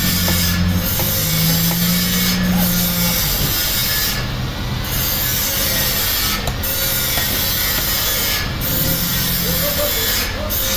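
Engine-driven sawmill machinery working a large log: a steady engine with wood rubbing and sawing over it.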